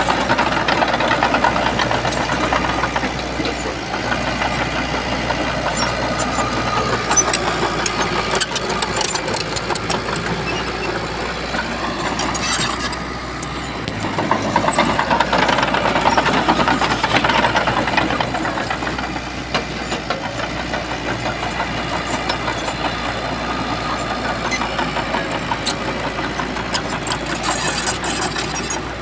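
Shantui bulldozer's heavy diesel engine running under working load with a constant mechanical clatter. It swells louder near the start and again about halfway through.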